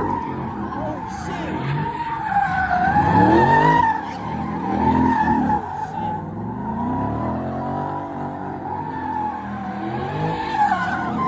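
A car spinning its tyres, with a continuous, wavering tyre squeal over an engine that revs up and down again and again.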